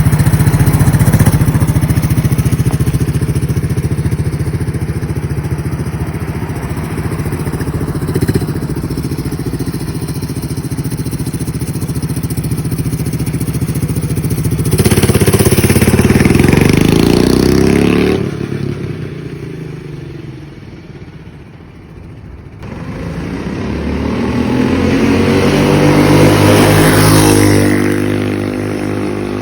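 Coleman mini bike's small single-cylinder engine running while riding. It revs up about halfway through, drops right down for a few seconds, then accelerates again with a long rise in pitch before settling.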